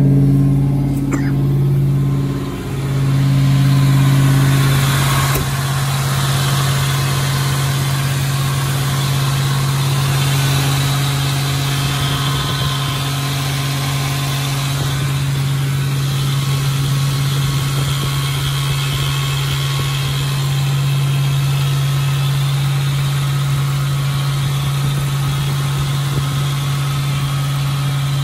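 Freshly rebuilt Chevy 305 small-block V8 in a 1986 Silverado idling steadily just after a very cold start.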